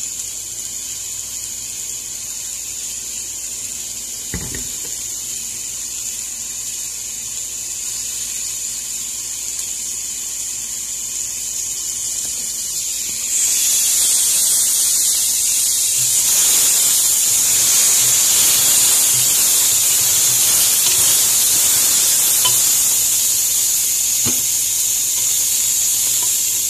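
Tomatoes and guajillo chiles sizzling as they toast in oil in a pot. The sizzle turns clearly louder about halfway through, when they are stirred with a spatula, and there is a light knock near the start and another near the end.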